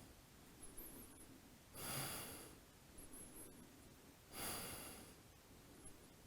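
Faint human breathing, two soft breaths about two and a half seconds apart, as the instructor breathes while holding a deep lunge.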